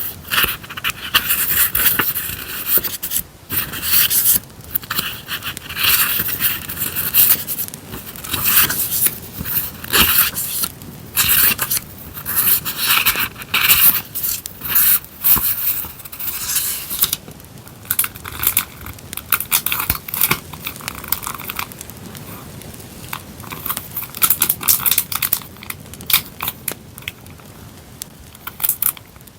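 Paper and packaging being handled: irregular rustling and scraping strokes, busier in the first half and sparser later. An added campfire crackle track runs underneath.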